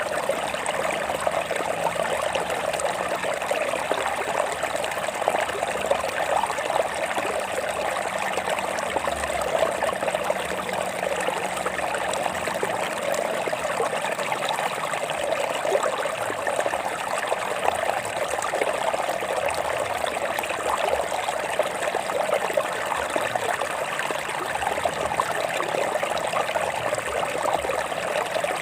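Stream water flowing and trickling over rocks, a steady babbling.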